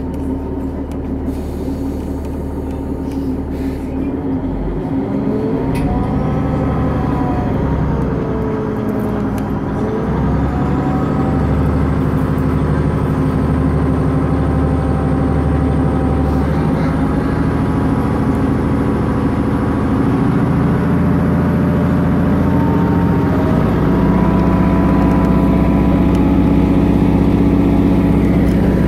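Diesel train's engine heard from inside the carriage as it pulls away: a steady drone with its note rising and falling, then climbing and growing gradually louder as it gathers speed.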